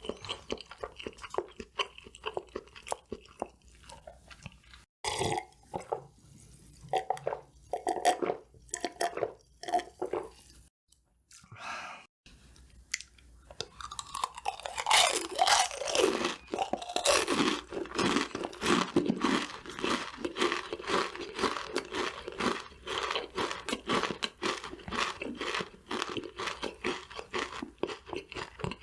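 Close-miked chewing of crispy fried food, loud crunches. Scattered bites at first, a brief pause near the middle, then a dense run of crunching through the second half.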